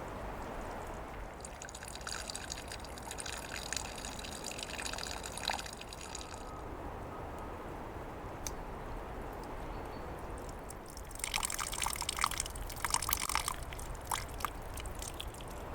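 Water trickling and dripping from an old tap that comes up out of the ground, livelier in two spells: from a second or two in to about halfway, and again near the end.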